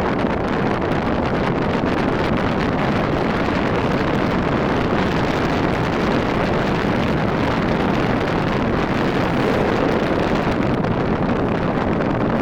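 Steady wind rush on the microphone of a Rusi RFI 175 motorcycle riding at speed, with road and engine noise blended beneath it.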